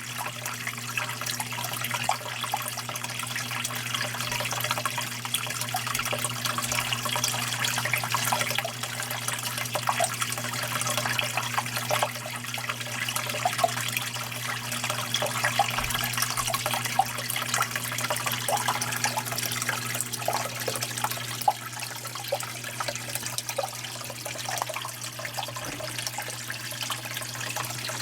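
Running water splashing steadily, with a steady low hum underneath.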